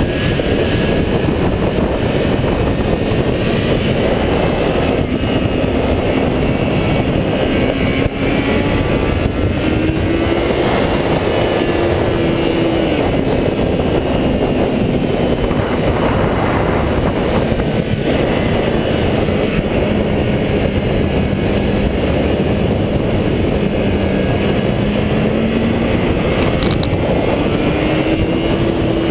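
400cc motorcycle engine running at high revs under way, over a heavy rush of noise. Its note climbs about ten seconds in, drops back a few seconds later, and climbs again near the end.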